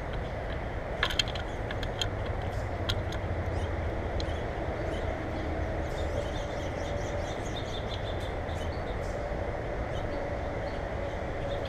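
Small birds at a feeder: scattered sharp clicks and brief high chirps over a steady low rumble with a faint hum.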